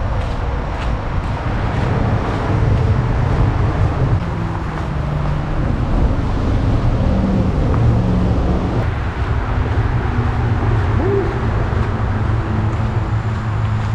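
Loud, continuous drone of interstate highway traffic, with the low hum of passing vehicles drifting up and down in pitch.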